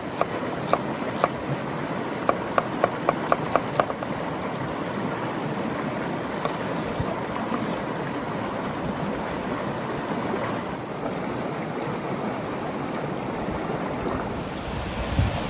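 River water flowing steadily, with a run of short sharp clicks in the first few seconds. Wind starts buffeting the microphone near the end.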